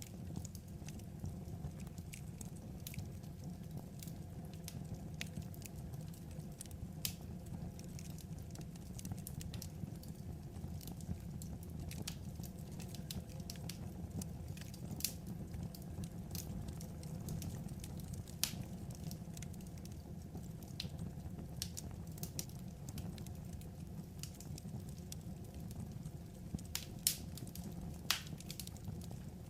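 Wood fire crackling: irregular sharp pops and snaps over a steady low rumble of the burning logs, with a few louder pops near the end.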